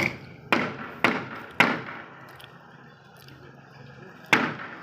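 Sharp knocks at a steady pace of about two a second, four in a row, then a pause of about two and a half seconds and one more near the end, over a faint low hum.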